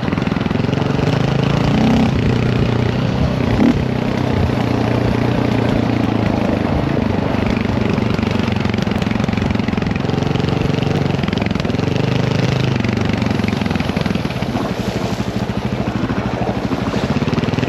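Dirt bike engine running under way on a trail, its revs rising and falling with the throttle, with a brief knock about four seconds in.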